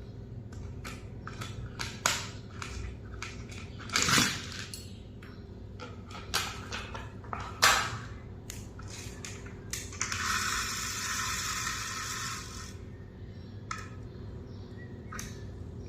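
Small hard objects being handled: a run of clicks and clatters with a few sharper knocks, and a steady scratchy rustle lasting about three seconds past the middle.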